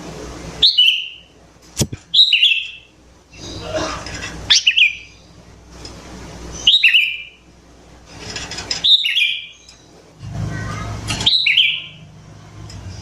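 Sooty-headed bulbul (kutilang) singing loud, short bubbling phrases about every two seconds. Each phrase opens with a quick downward sweep and ends in a warble. A single sharp click comes about two seconds in.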